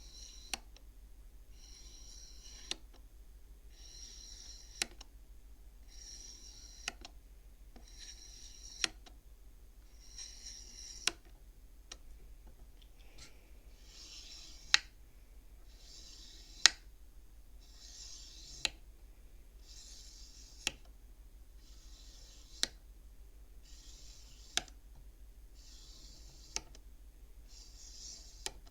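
Beads on a wooden toy abacus slid one at a time along their rods, each slide a soft scraping rush that ends in a sharp click as the bead strikes the others, about every two seconds. A faint low hum runs underneath.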